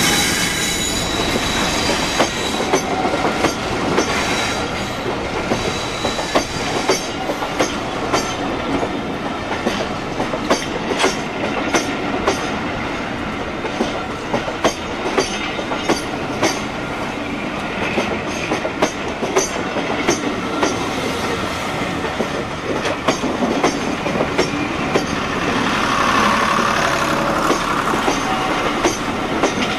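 Maroon West Coast Railways charter coaches rolling past close by, their wheels clicking irregularly over rail joints with a steady running rumble. Faint wheel squeal shows early on, and the sound swells louder for a few seconds near the end.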